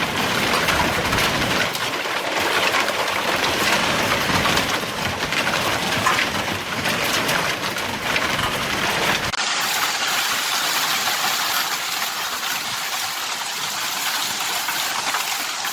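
Heavy storm rain pouring down and pelting surfaces in a dense, steady patter. About nine seconds in it cuts abruptly to a thinner, hissier downpour.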